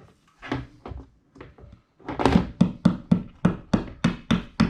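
Hammer tapping a wall anchor into a hole in drywall: a few light taps, then from about halfway a steady run of sharp blows, about four a second.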